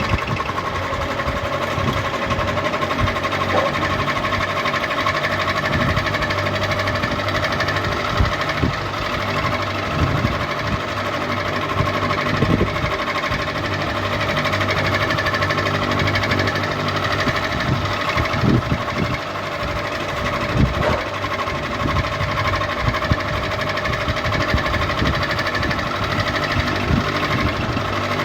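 Electric ceiling fan running steadily: an even motor hum with a mechanical rattle and a few short clicks.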